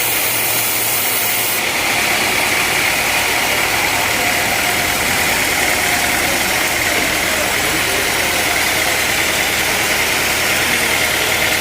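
Sawmill machinery running steadily: the log saw and the engine that drives it, a loud, even mechanical noise. Its tone shifts slightly about a second and a half in.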